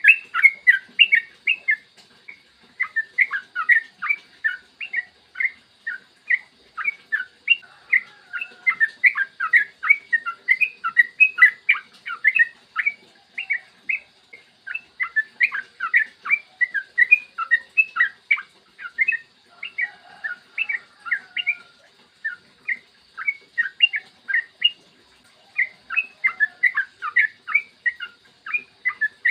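Yellow-vented bulbul song: long rapid runs of short, bubbly chirping notes, several a second, broken by a few brief pauses.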